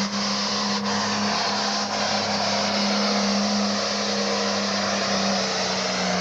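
Super farm class pulling tractor's diesel engine running flat out under load as it drags the weight-transfer sled, a loud, steady drone that holds one pitch.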